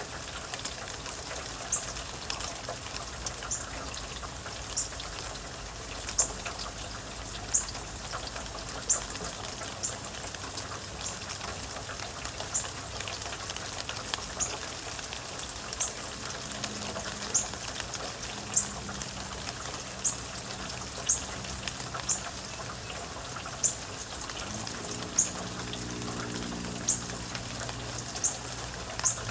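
Steady rain, with a single drip striking a hard surface at an even pace, about once every second and a half. A low hum comes in over the last few seconds.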